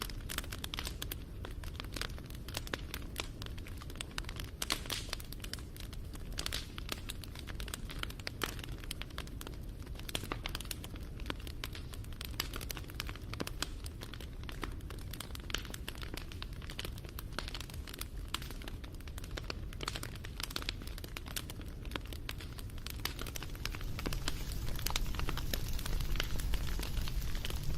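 Wood fire crackling: dense, irregular small pops and snaps over a low rumble of flames, growing louder about three-quarters of the way through.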